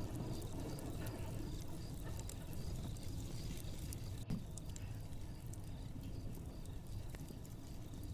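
Fireplace crackling: scattered faint irregular pops over a low steady rumble, with one sharper pop about four seconds in.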